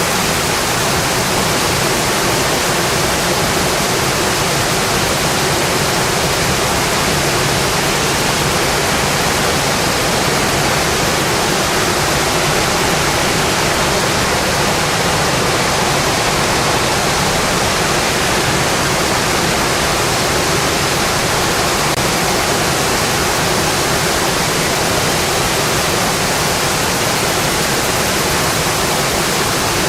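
Steady, heavy rain drumming on a metal roof, an even hiss that never lets up.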